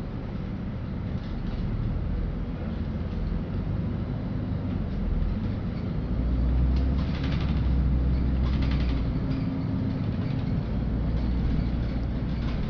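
Inside a LiAZ-5292 city bus under way: steady low engine and road rumble that grows louder about six seconds in, with a few short rattles.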